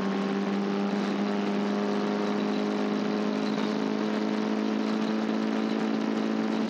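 Caterham Seven race car engine pulling hard in one gear, its note climbing slowly and steadily as the revs build.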